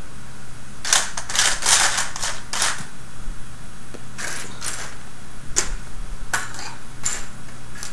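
Small plastic robot-kit parts clicking and rattling as they are picked out and sorted by hand: a quick flurry of clicks, then single clicks every second or so.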